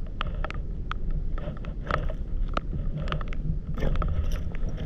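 Irregular sharp ticks and taps of rain drops, several a second, over a steady low rumble.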